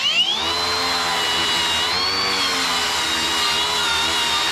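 Electric angle grinder spinning up and running at speed, its whine wavering a little in pitch as it is worked against the metal, most likely cleaning slag off fresh welds.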